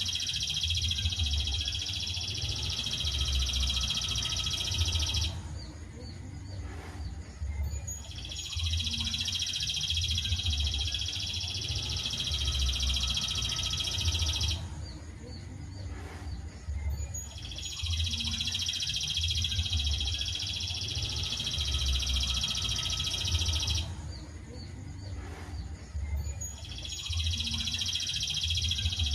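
Songbird tutoring (masteran) recording: a high, rapid trilling song that lasts about five seconds, breaks off for a few seconds, then starts again, three times in an even repeating pattern, over a low background rumble.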